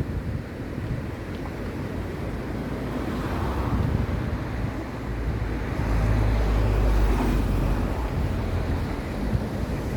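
Wind buffeting the microphone: an irregular low rumble that swells about five seconds in and eases again near the end.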